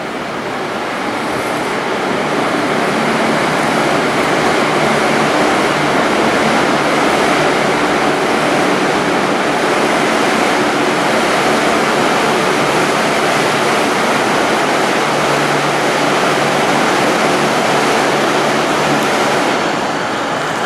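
V/Line VLocity diesel railcar running past at close range: a loud, steady rumble of diesel engines and wheels on rail that builds over the first few seconds and then holds.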